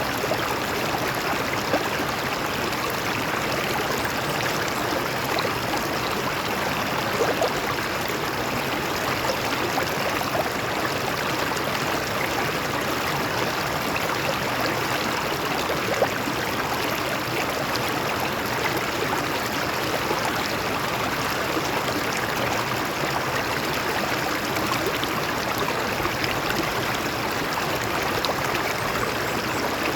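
Stream water flowing and splashing over rocks, a steady rushing with small splashes and a brief splash about 16 seconds in.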